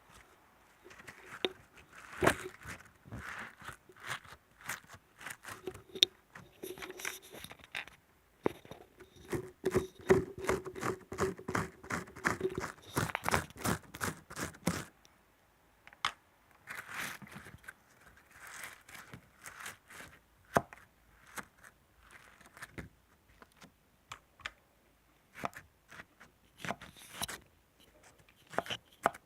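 Irregular close-up clicks, taps and crinkling of objects being handled, with a dense quick run of taps in the middle.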